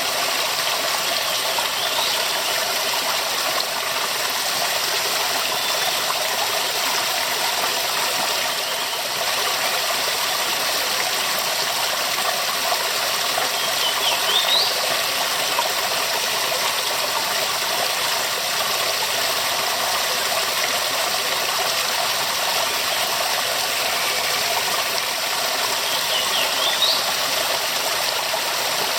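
Waterfall: a steady, full rush of falling water. Three times, about two, fourteen and twenty-seven seconds in, a faint short rising chirp sounds over it.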